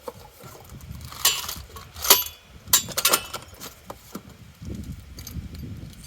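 Steel parts of a truck-hitch game hoist clinking and knocking together as they are handled, several sharp metallic clinks with a brief ring, then a low rumbling handling noise near the end.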